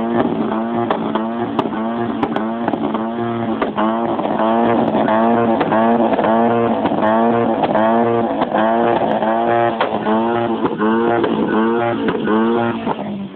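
Ford Mondeo engine revved over and over in quick throttle blips, about one and a half a second, each rise and fall in pitch marked by a sharp crack, as the exhaust spits fire. The revving stops right at the end.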